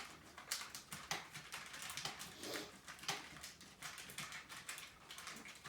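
Faint, irregular crackling and rustling as a gelatin-coated bird seed mixture is pressed and packed down into a cookie cutter with a scrap of parchment paper.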